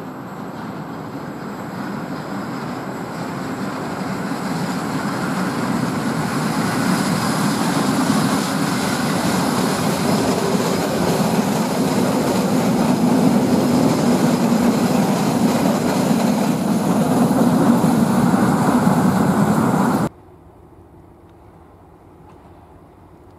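EN57 electric multiple unit approaching and running past on the line, its wheel and running noise growing steadily louder as it nears. About twenty seconds in, the sound cuts off abruptly to a much quieter background.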